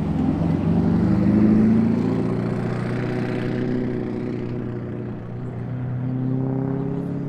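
American muscle car's engine and exhaust as it drives out, rising in pitch over the first couple of seconds as it accelerates, then settling to a steadier, lower note that swells again near the end.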